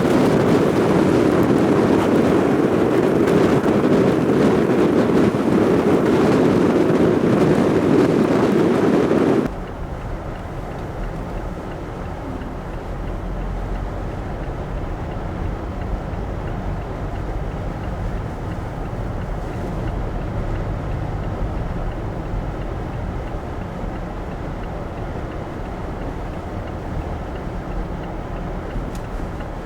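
Wind blowing hard across the microphone, then after about nine and a half seconds a sudden cut to a quieter steady low rumble.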